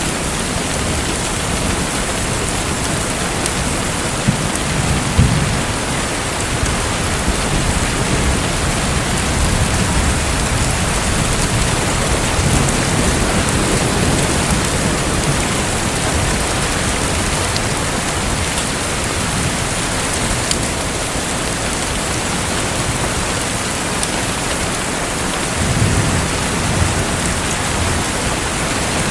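Steady rushing water sound, an even hiss with no rhythm, broken by a few brief low rumbles: about five seconds in, near the middle, and again near the end.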